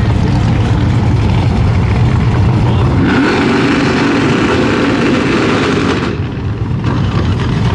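Loud vehicle engine running, with a higher, pitched engine note joining from about three seconds in until about six seconds, when the sound dips briefly.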